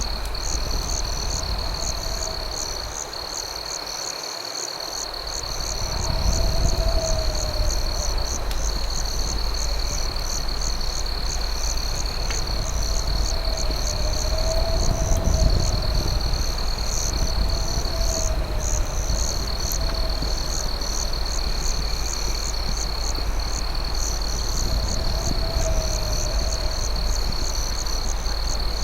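Night insect chorus: crickets keeping up a steady high trill over fast, evenly pulsed chirps. A lower call rises and falls every couple of seconds, over a low rumble that dips about three seconds in and returns near six seconds.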